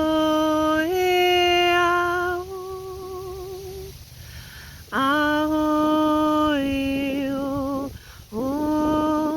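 A woman's voice toning long, wordless sung notes for sound healing: three held notes, each sliding up into pitch and ending in a wavering vibrato, with short breaths between them. The first steps up in pitch about a second in.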